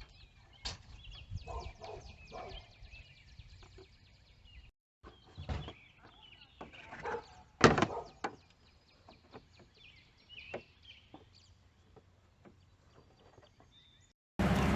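Scattered knocks and clunks, the loudest a sharp knock a little under eight seconds in, over faint chirping calls of birds or fowl.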